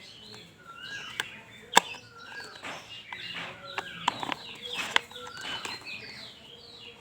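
Birds calling over and over in the background, short curved chirps and clucks, with a few sharp plastic clicks as toy parts are handled and pressed together, the loudest click about two seconds in.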